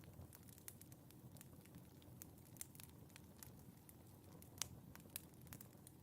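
Wood fire crackling in a fireplace: faint scattered pops and snaps over a low, steady rumble, with a couple of sharper pops late on.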